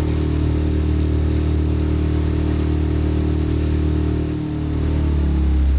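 Motorboat engine running steadily under way. About four seconds in it briefly eases off, and near the end its pitch shifts slightly lower.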